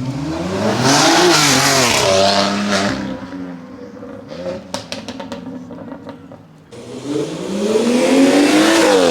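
A performance car engine revs hard as the car accelerates away, its pitch climbing and then dropping as it passes. A few sharp cracks sound in the lull after it. About seven seconds in, another hard acceleration climbs in pitch and is loud near the end.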